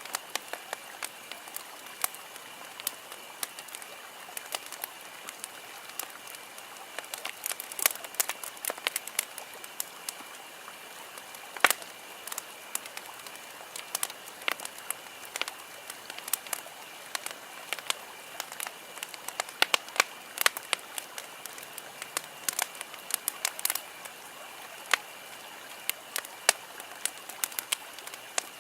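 Wood campfire crackling, with frequent irregular sharp pops and snaps, the loudest about twelve seconds in. A faint, steady high-pitched tone runs underneath.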